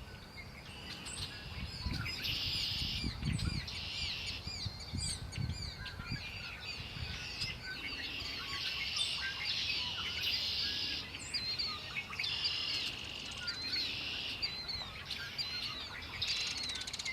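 A chorus of many songbirds singing at once: overlapping short, quick chirps and buzzy trills repeating throughout.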